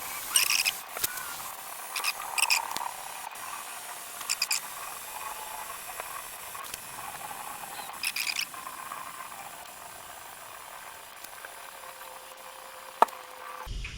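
Steady hiss of compressed air bleeding from a 20-gallon compressor tank through a hose into a large tractor tyre. The fill is slow because the tank's pressure is dropping toward the tyre's. A few short high-pitched chirps come and go, and there is a sharp click near the end.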